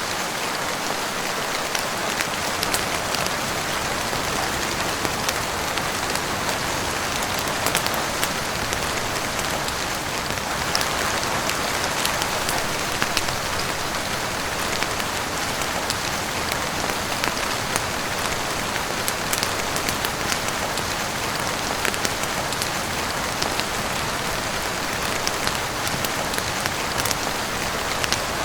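Steady heavy rain on a roof, an even hiss with many sharp scattered ticks of individual drops.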